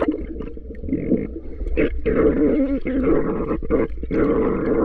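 Muffled underwater sound from a camera dunked in seawater: bubbling, wobbling gurgles and water rushing past the microphone, with short knocks and a steady low rumble.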